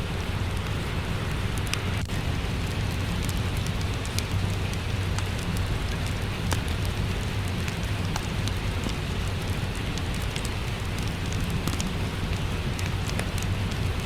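Steady rain with a low rumble underneath, and a fireplace crackling with frequent small sharp pops.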